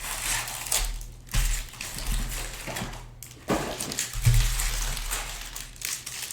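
Trading-card pack wrappers crinkling and rustling irregularly as packs and cards are handled, with a low hum underneath.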